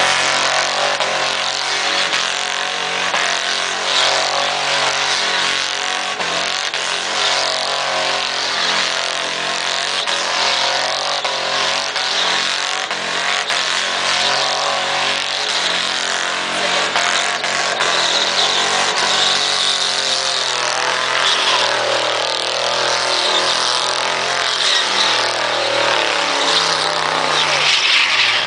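Mini truck doing a burnout: the engine is held at high revs, its pitch wavering up and down as the throttle is worked, over continuous noise from the spinning rear tyres.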